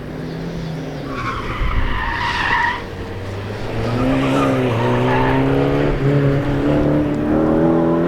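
A car driven hard on an autocross course: the tires squeal for about two seconds, about a second in, then the engine pulls with a slowly rising note.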